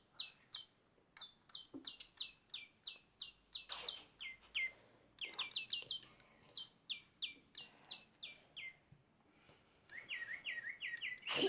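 Digi Birds electronic toy bird chirping, answering its whistle: a long run of short, high chirps that each drop in pitch, a few per second, with a lower, quicker run of chirps near the end.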